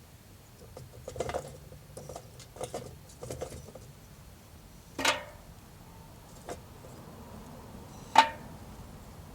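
Scattered small clicks and knocks, with two sharper knocks about five and eight seconds in, the second ringing briefly.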